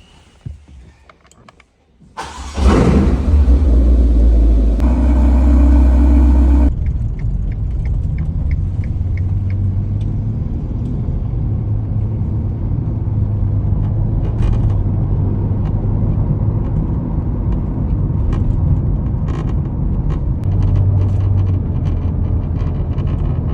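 Ferrari Portofino's twin-turbo V8 starting about two seconds in and flaring loudly for about four seconds, then settling to a steady deep running sound. Faint irregular ticks come through over it: the dashboard rattling near the windshield, which is traced to the metal trim clips buzzing in their mounts under engine resonance.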